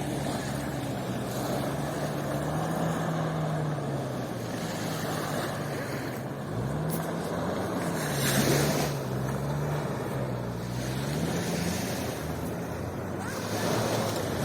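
Surf washing on the shore with wind noise, a wave surging about halfway through, under the steady drone of an engine whose pitch wavers slowly up and down.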